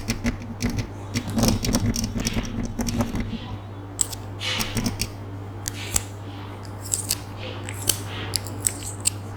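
Close-miked ASMR trigger sounds: irregular sharp clicks and scratches with a few short soft hisses, over a steady low electrical hum.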